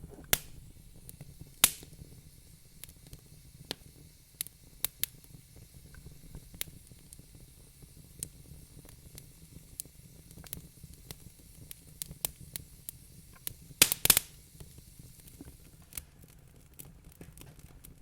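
Wood fire crackling in a fireplace: irregular sharp pops and snaps over a low hiss, with a louder burst of pops about fourteen seconds in.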